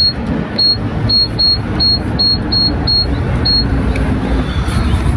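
Short, high electronic beeps, about nine of them at two to three a second, that stop about three and a half seconds in, over a steady low rumble.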